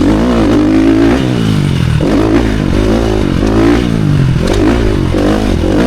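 Motocross dirt bike engine, heard from the rider's helmet camera, revving hard and rising and falling over and over as the rider works the throttle and gears around the track.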